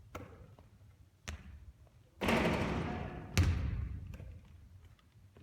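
Basketball bouncing on a court floor: sharp thuds with short echoing tails, the loudest about three and a half seconds in, just after a rushing noise of about a second.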